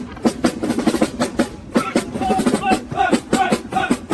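Marching-band music: a quick, steady snare-drum cadence, with a pitched tune joining in about two seconds in.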